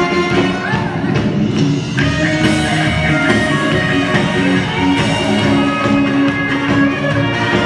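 Instrumental backing track played from a mobile phone as accompaniment for a sung performance: steady music with held notes and chords, no voice.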